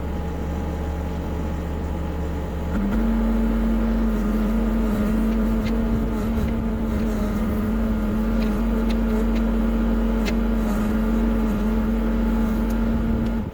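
Cat 304CR mini excavator's diesel engine running steadily; about three seconds in it steps up to a louder, higher steady running note, which it holds.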